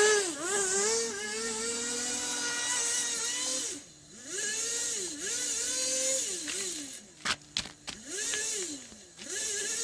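Small nitro glow engine of a Kyosho Blizzard RC snow vehicle revving up and down over and over as it is driven, dropping to low revs about four seconds in and again around seven seconds. A few sharp clicks come just after seven seconds in.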